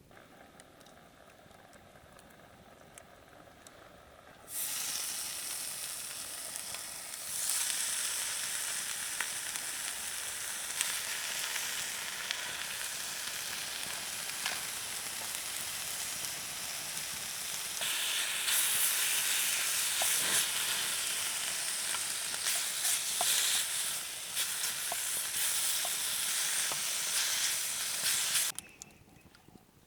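Food frying in a pan: a steady sizzle with scattered small pops that starts suddenly a few seconds in, grows louder twice and cuts off abruptly near the end.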